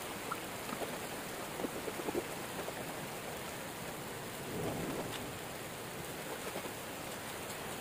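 Steady hiss of heavy rain, with a few scattered crackles and a louder swell about five seconds in.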